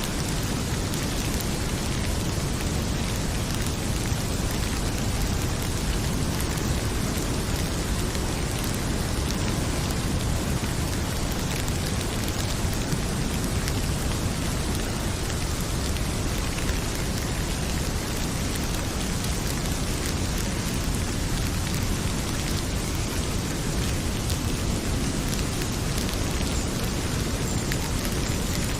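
Heavy rain pouring steadily over a continuous deep rumble, with faint scattered crackles from a wood fire.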